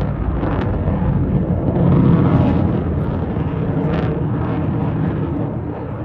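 Loud low rumble of an F-35 Lightning II's Pratt & Whitney F135 jet engine during a display flight. It swells about two seconds in and eases slightly near the end.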